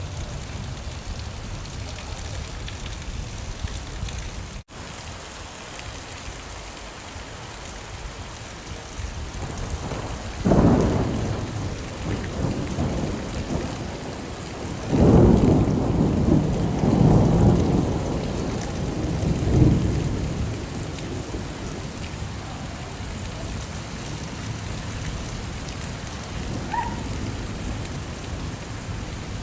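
Steady rain falling, with thunder rumbling about ten seconds in and again, longer and louder, from about fifteen to twenty seconds. The sound drops out for a moment near five seconds.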